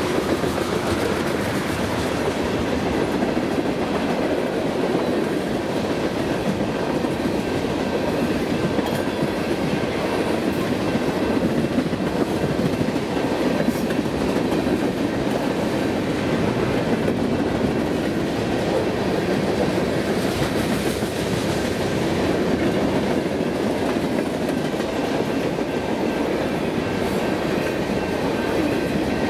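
Freight cars of a Union Pacific manifest train rolling past close by: a steady, continuous noise of steel wheels running on the rail.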